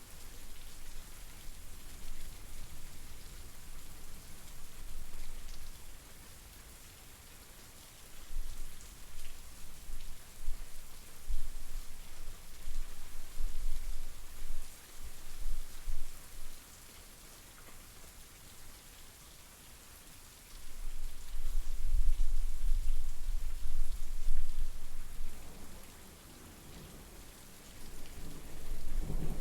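Steady rain falling as an even hiss, with low rumbles of distant thunder that swell twice: once about a third of the way in and again, louder, past the two-thirds mark.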